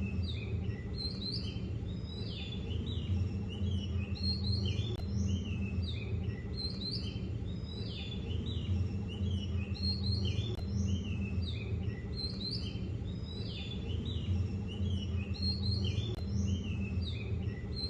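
Many small birds chirping and calling together without pause, over a steady low rumble.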